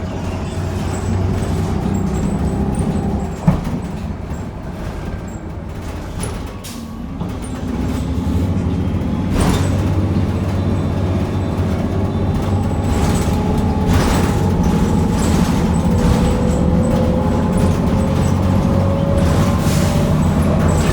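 Inside a bus: the Cummins Westport L9N natural-gas engine and Allison automatic transmission running. They ease off for a few seconds, then pull the bus away under power, with a whine that climbs steadily in pitch as it gains speed. There is a sharp click about three and a half seconds in.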